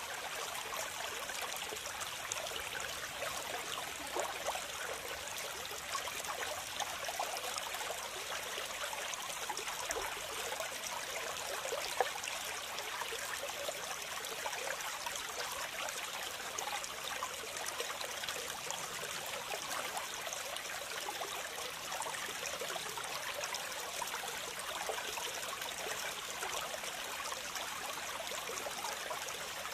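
Steady rush of water from a dam spillway with floodwater gushing through it, an even hiss throughout. There is a single short sharp tap about twelve seconds in.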